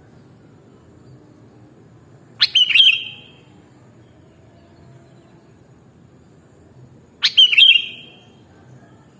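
Sooty-headed bulbul (kutilang) calling: two short phrases of quick chirping notes, each about half a second long and about five seconds apart.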